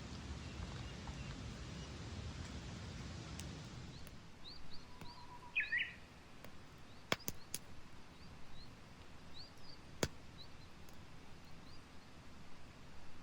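A steady low rushing noise, which stops abruptly about a third of the way in. Small birds then chirp in short rising notes, with one louder call, and a few sharp snaps from the campfire come around the middle, three in quick succession and one more a few seconds later.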